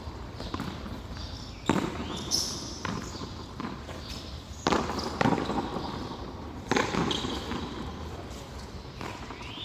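Frontón handball play: about five sharp slaps of the ball being struck by hand and hitting the wall and floor, some in pairs about half a second apart, each ringing briefly off the court.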